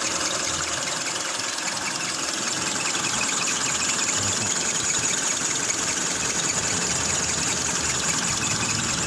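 Vehicle engine idling steadily, a little low in revs, with no unusual noise. It is running normally again after a no-start caused by poor contact at the battery terminals.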